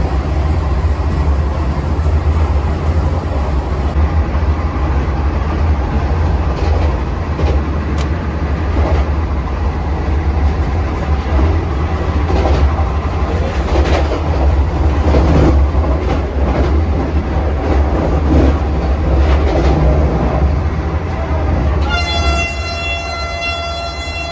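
Vande Bharat Express train running at speed: a heavy, steady rumble with scattered clicks of the wheels on the track. About two seconds before the end a train horn starts and holds one steady chord.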